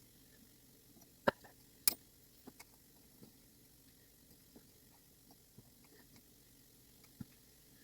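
Scattered small clicks and taps of clock movement parts being handled while wheels are fitted into the frame, two sharper clicks about a second and two seconds in, then fainter ones.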